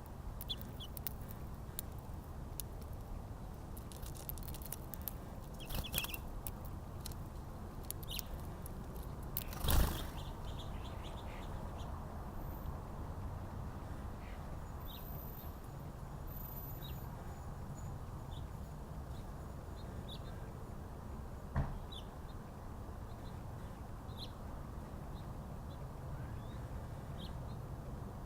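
Small birds at a backyard feeder giving short, scattered chirps over a steady low outdoor rumble. A loud sharp knock comes about ten seconds in, and a smaller one around two-thirds of the way through.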